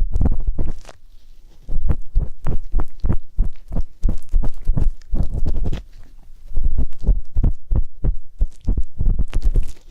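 Ear-cleaning ASMR: an ear pick scraping and rubbing close to the microphone in quick strokes, about five a second, each with a deep, muffled thump. The strokes pause briefly about a second in and again around six seconds.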